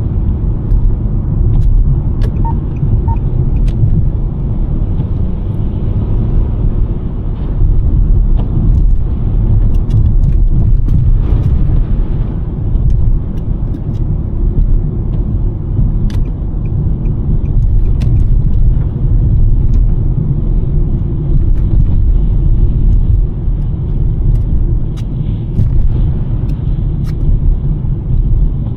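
2023 Nissan Sentra driving on a snowy road: a steady low rumble of tyres and engine, with a few faint scattered ticks.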